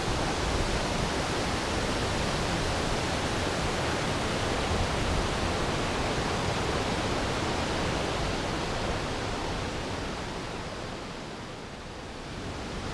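Steady rushing of a large waterfall with heavy flow. The sound briefly drops and comes back near the end.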